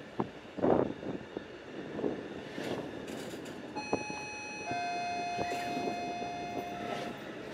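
Train noise, with a short loud burst less than a second in. Past the middle a steady two-note tone sounds for about three seconds, a brief higher note followed by a longer, stronger lower one.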